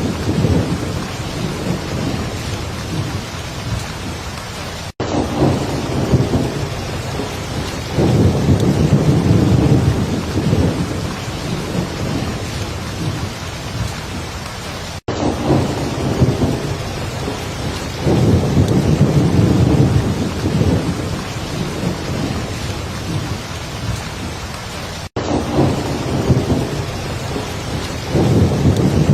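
Heavy rain falling steadily, with low thunder rumbling and swelling several times. The sound cuts out for an instant three times, about every ten seconds, as the same stretch of recording repeats.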